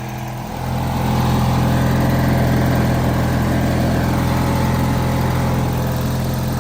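Murray garden tractor engine running steadily, getting louder about half a second in as it is throttled up, then holding an even speed. It runs pretty good.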